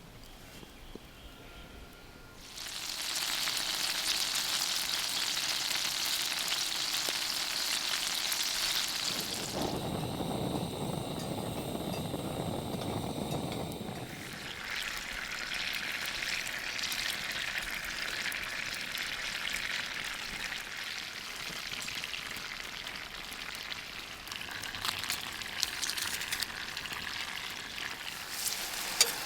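Food sizzling in a hot frying pan. It starts loud about two and a half seconds in, with a rougher, lower-sounding stretch around the middle, then steady sizzling with scattered crackles.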